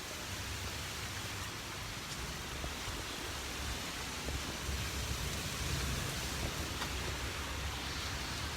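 Strong storm wind buffeting the microphone, a fluctuating low rumble over a steady hiss.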